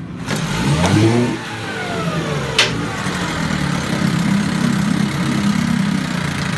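1963 Johnson 5.5 hp two-cylinder two-stroke outboard motor starting up and revving briefly in the first second or so, then settling into steady running. A single sharp click comes a little over two seconds in.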